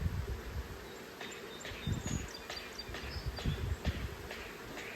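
Honeybees buzzing around an open hive, with a series of light clicks and knocks from about a second in.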